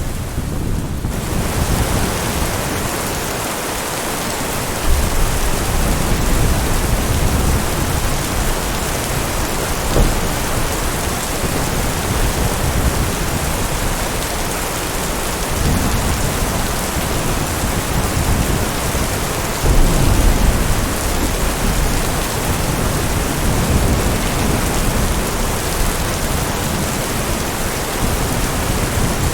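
Heavy rain falling steadily, with thunder rumbling low several times, the biggest rolls starting about five seconds in and again near twenty seconds.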